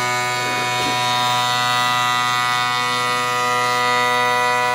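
CNC router spindle running at steady speed, a buzzing whine of many even tones that holds unchanged, not yet cutting.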